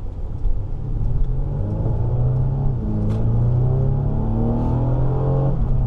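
2016 Mercedes C300's turbocharged 2.0-litre inline-four accelerating, heard from inside the cabin. Its pitch climbs steadily for several seconds and drops just before the end.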